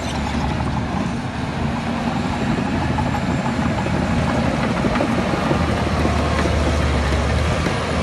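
Heavy diesel earthmoving machinery running steadily, a low engine rumble that grows heavier in the last few seconds.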